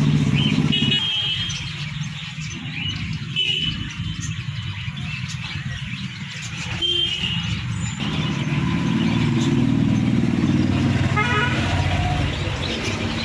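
Street traffic: motor vehicles running past, a steady low rumble with short high chirps or toots scattered over it.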